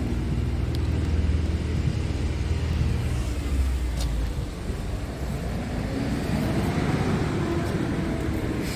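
Scania R tractor unit's diesel engine running: a steady low drone for the first few seconds, then the engine note rises and falls from about five seconds in.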